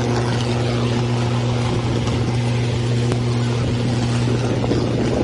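A vehicle engine running steadily, a constant low hum under a loud rushing noise.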